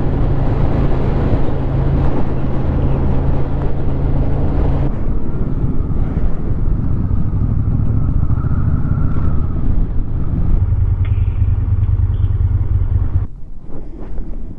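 Motorcycle engine running steadily at road speed. The sound shifts about five seconds in and drops away sharply near the end.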